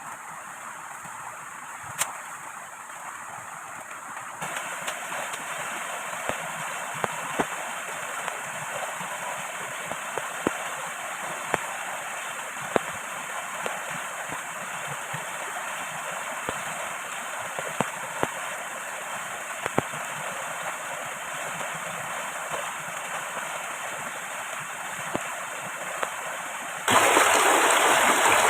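Steady rush of heavy rain and river water, with scattered sharp taps of single drops. It gets louder in two sudden steps, the second and bigger one near the end.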